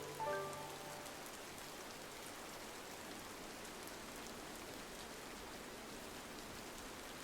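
Steady rain pattering on a window glass, an even hiss with faint tiny drop ticks. A few soft musical notes die away in the first second.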